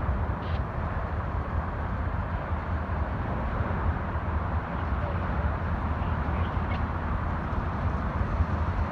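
Amtrak Texas Eagle passenger train rolling past at slow speed, a steady low rumble from its cars on the rails.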